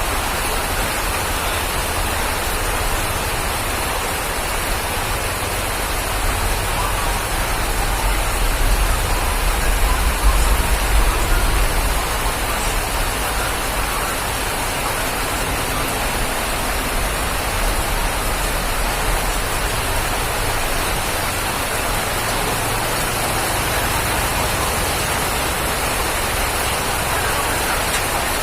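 Steady rain falling, an even hiss. A deeper low rumble swells for a few seconds about a third of the way in, then settles.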